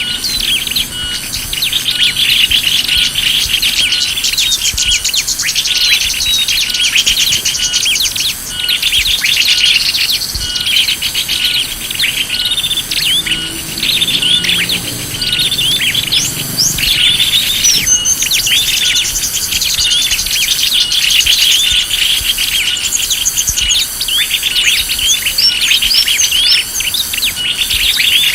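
Small songbirds chirping and twittering densely and continuously, many quick high notes overlapping, with an insect-like trill pulsing evenly beneath them. It is a recorded bird-lure call ('suara pikat') of the kind played to draw small birds in.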